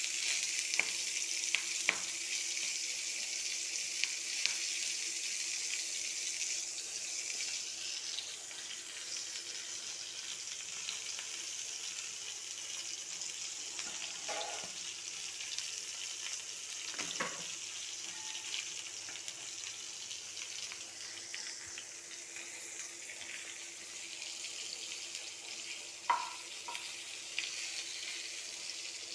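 Bitter gourd strips, green chillies and fresh curry leaves shallow-frying in oil: a steady sizzle that eases off a little after the first several seconds. A wooden spatula knocks and scrapes against the pan a few times, sharpest near the end.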